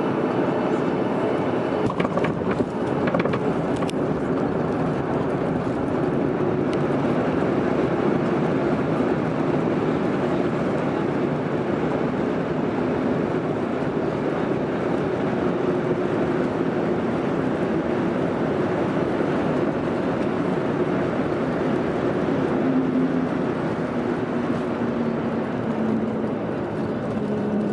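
Cabin noise inside a Boeing 737-900ER on landing: a steady roar from the CFM56 jet engines and airflow, with a few sharp knocks and rattles a couple of seconds in. Near the end the engine tone falls in pitch as the engines spool down.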